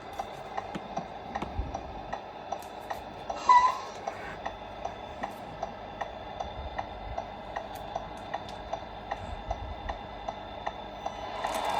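Steady mechanical ticking, about three ticks a second, over a faint hum, with a short squeak about three and a half seconds in. A louder rushing sound starts just before the end.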